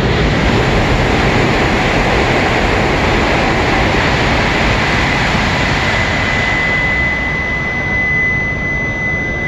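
Tohoku Shinkansen train running along the platform: a loud, steady rush of noise, with a thin high whine rising out of it from about six seconds in.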